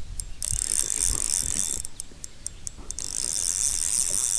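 Fishing reel ratcheting fast in two long runs with a few separate clicks between them, with a hooked fish on the line.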